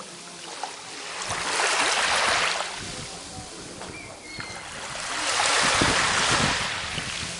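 Sea waves washing in on the shore. Two swells of surf roll in about four seconds apart, each rising and then falling away.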